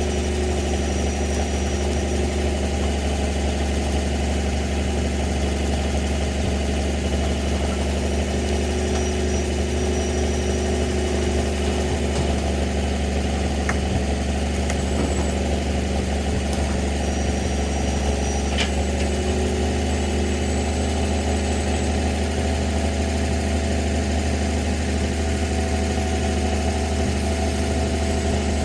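Truck engine idling steadily, a low even drone with no revving.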